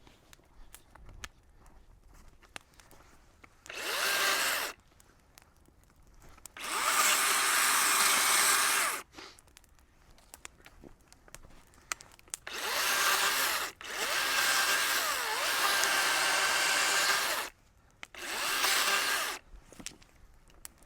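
Power tool run in five bursts, from about one to four seconds long, going fully quiet between them. Small clicks and knocks fill the gaps.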